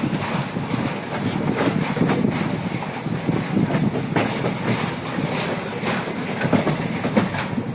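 Freight train of loaded flat wagons rolling past close by: a steady rumble of wheels on rail with irregular sharp clicks.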